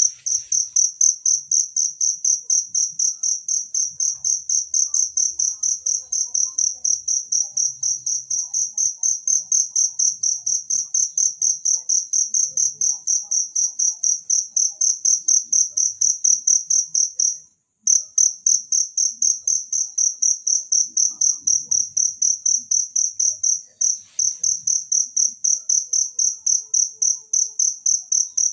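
A cricket chirping steadily in a high-pitched, even rhythm of about four chirps a second, with one brief break a little past halfway.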